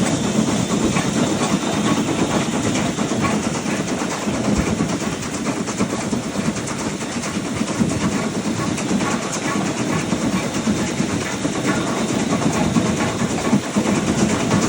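Steam-hauled train running steadily along the line behind the LB&SCR H2 Atlantic 4-4-2 replica Beachy Head: a continuous rumble of wheels on the rails.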